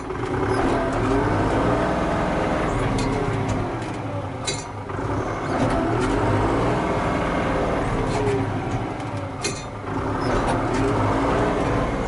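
Tractor engine revving up and dropping back in about three swells, as when working under load, with a few sharp knocks.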